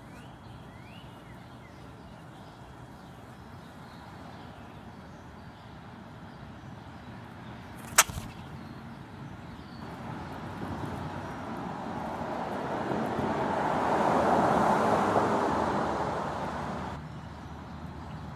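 A vehicle passing by, its noise swelling for several seconds and then dropping off abruptly near the end. Before it comes one sharp click.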